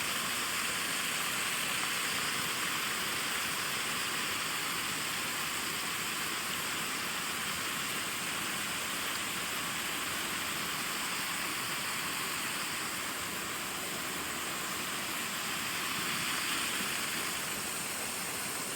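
Water pouring over a small dam spillway: a steady, even rush.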